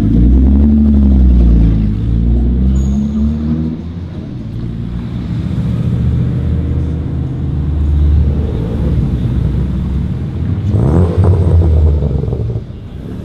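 Car engines running and revving: the engine note rises and falls over the first few seconds, holds steady, then climbs again about eleven seconds in as a car accelerates.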